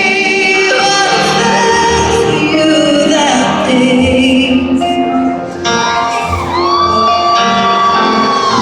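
Live country band playing in a large arena, with shouts and whoops from the audience. About two-thirds in, a note slides up and is held.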